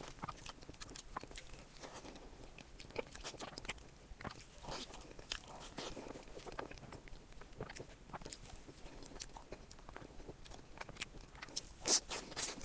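Crab shell crunching and cracking in many small irregular snaps, with one louder crack near the end.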